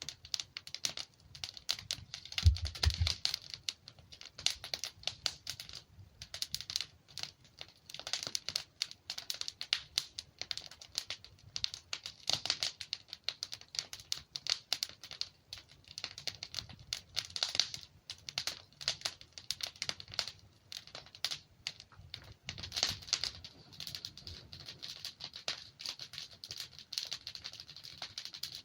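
Wood fire burning, with dense, irregular crackling and popping of logs. A low thump comes about two and a half seconds in.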